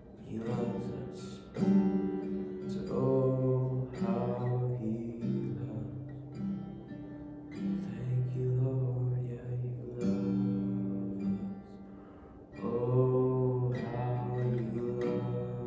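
Acoustic guitar strumming chords in a slow worship-song accompaniment, the strums swelling and easing with each phrase.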